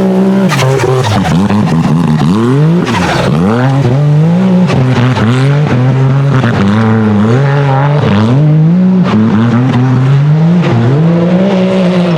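Turbocharged Polaris RZR buggy engine revving hard and dropping off again and again, as the throttle is pressed and lifted every second or two, with a few sharp knocks near the start.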